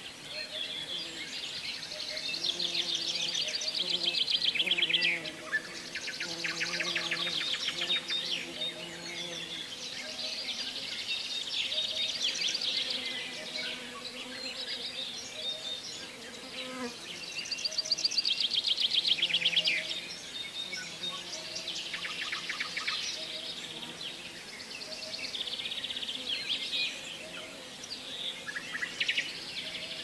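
Songbirds singing in repeated high trilled phrases, each about two to three seconds long and falling in pitch at the end, coming every several seconds. Faint low steady tones run underneath.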